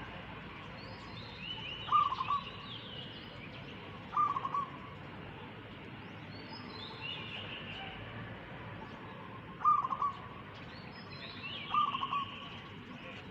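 Doves cooing: four short, loud, rapidly pulsed coos spaced a few seconds apart. Another bird's fainter, higher calls, stepping down in pitch, come in between.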